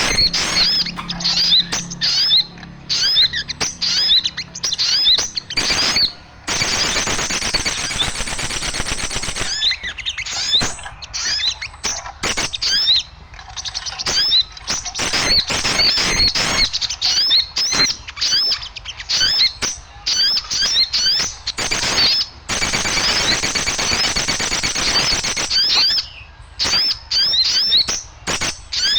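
Small birds chirping in a noisy, overlapping chorus of quick rising chirps with sharp ticks among them, thickening into dense chatter twice. This is a small-bird lure call played to draw birds in.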